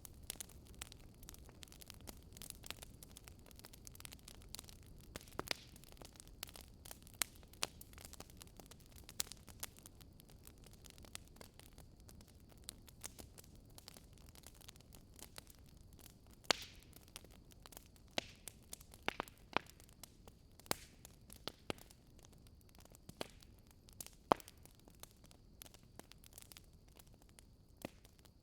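Wood fire burning in a fireplace, with a low rumble and hiss and irregular sharp crackles and pops.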